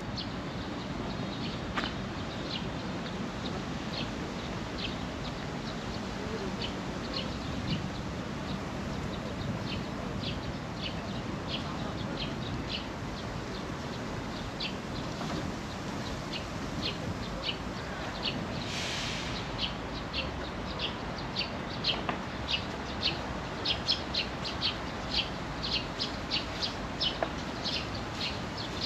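A small bird chirping again and again, short high calls that come sparsely at first and then faster and louder over the last third, over a steady low hum of outdoor background noise. A brief hiss a little past halfway.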